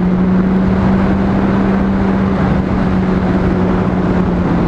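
Honda CBR600RR inline-four engine running at a steady, unchanging pitch while cruising, with wind rushing over the helmet microphone.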